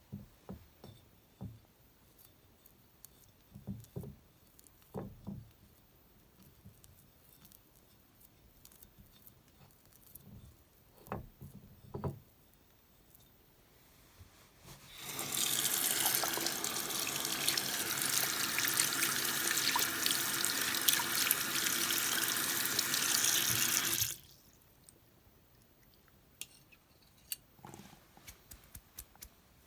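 Water running from a tap for about nine seconds, starting about halfway through and shutting off suddenly. Before it come scattered light knocks and clinks; a few faint clicks follow.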